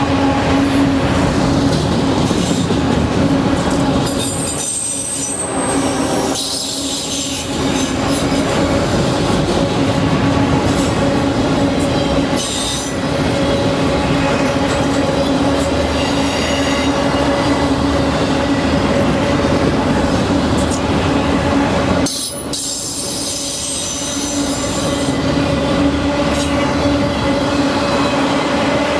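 Norfolk Southern freight train rolling past close by, its cars' wheels squealing on the rail in high, shifting tones over a steady rumble.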